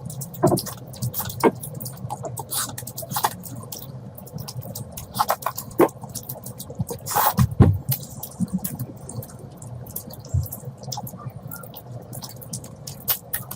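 Close-miked eating sounds from a person eating spicy curry: irregular wet chewing and lip-smacking clicks, with one longer noisy slurp-like sound about seven seconds in.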